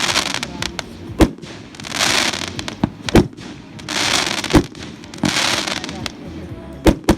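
A 19-shot, 1.2-inch consumer fireworks cake firing: a sharp bang every second or two, with short bursts of hiss between them as the shells go off.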